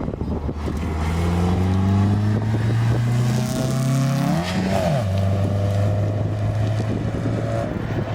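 Rally car engine pulling hard, its note climbing steadily, then dropping sharply about five seconds in and holding a steady note after that.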